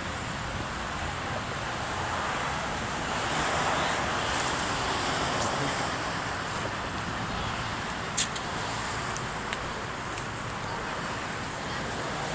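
Steady vehicle noise that swells about three to five seconds in, with a sharp click about eight seconds in.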